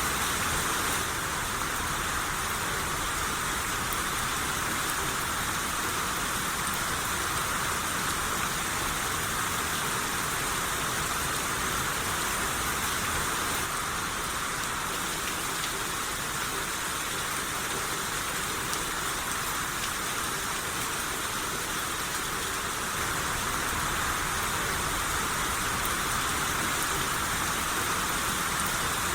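Steady rain shower, an even hiss of falling rain without pause.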